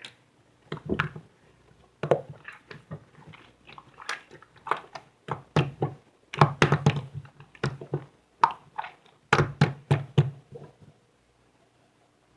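A quick irregular run of knocks and taps, some of them heavier thuds, stopping about eleven seconds in.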